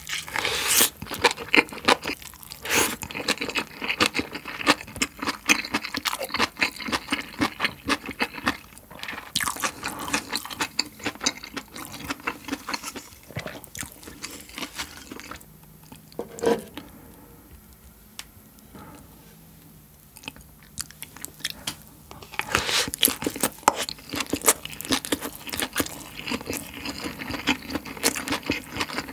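Close-miked chewing of a large mouthful of Spam: dense wet clicks and smacks that thin out to a quieter stretch about halfway through, then pick up again.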